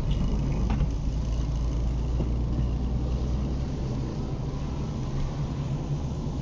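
Car engine and road noise heard from inside the cabin while driving, a steady low rumble with a single click about a second in. The deepest part of the rumble eases a little about halfway through.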